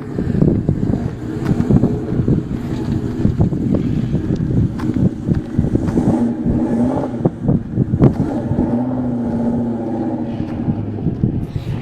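Car engine running at speed with wind noise around it. About halfway through, the engine settles into a steady pitch.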